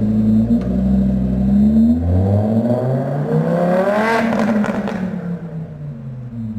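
Lamborghini Huracán LP610-4's naturally aspirated V10 engine pulling away under acceleration: the engine note climbs steadily in pitch for about two seconds, peaks about four seconds in, then drops and fades as the car moves off.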